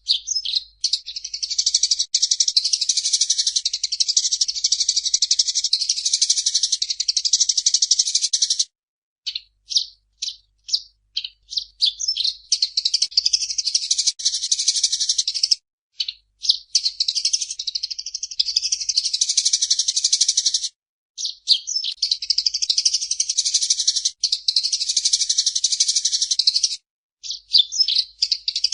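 Eurasian tree sparrow chattering: long bouts of rapid, dense high chirps, each lasting several seconds, broken by short pauses with a few separate chirps.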